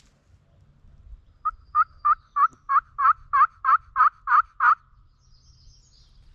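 A turkey call sounding a run of about eleven hen yelps, evenly spaced at about three a second, used to call in gobblers.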